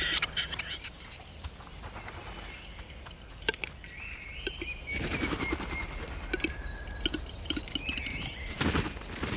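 A capercaillie cock's lek display: dry clicks that bunch into a quick rattle about halfway through, and a louder rushing burst near the end. Other birds chirp and sing around it.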